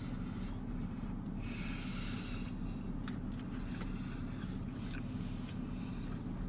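Chewing a corn dog inside a parked car, with a few small clicks and a brief rustle about a second and a half in, over a steady low hum.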